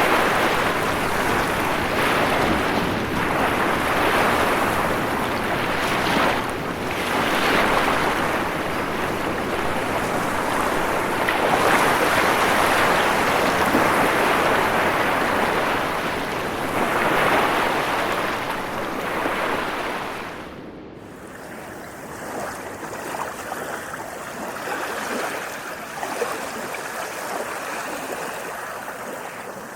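Ocean surf: waves breaking and washing in, swelling and falling every few seconds. About two-thirds of the way through the sound drops abruptly to a quieter, steadier rush of water.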